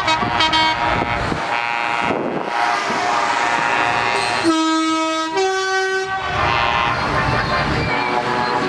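Truck air horns sounding, several overlapping, with a clear two-note blast about halfway through, the second note a little higher than the first.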